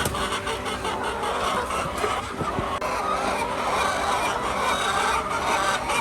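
A large flock of laying hens clucking together, many overlapping calls, over a steady low hum.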